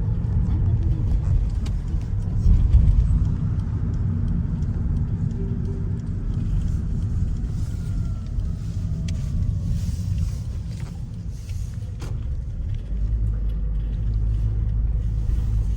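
Steady low rumble of a motor vehicle in motion. About 13 s in it settles into a steadier low hum.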